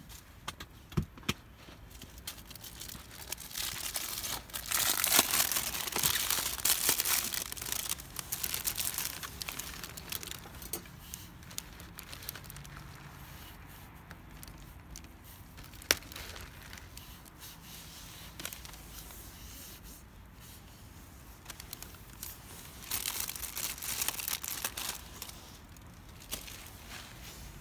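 Packaging being crinkled and handled, in two spells, with a single sharp click between them.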